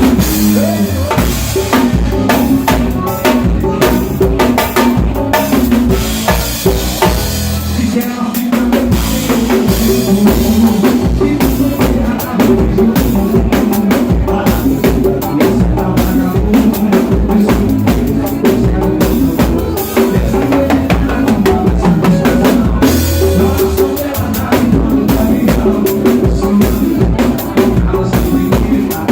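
Drum kit played along to a recorded song: bass drum, snare and cymbal strokes in a steady beat over the backing music.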